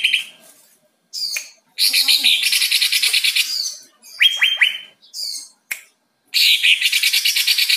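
Green leafbird (cucak ijo) singing loudly: rapid trilled phrases in bursts, with a few sharp downward-swept notes in the middle and short silent gaps between phrases.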